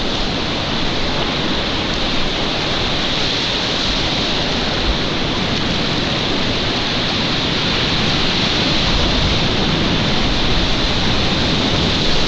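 Fast-flowing mountain stream water rushing steadily and loudly, as in whitewater rapids.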